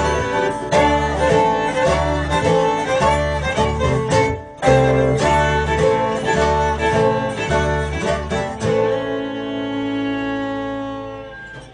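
Acoustic bluegrass band playing the instrumental ending of a song, led by fiddle and guitar over a steady beat. The band stops briefly about four seconds in, comes back in, then holds a final chord that rings out and fades near the end.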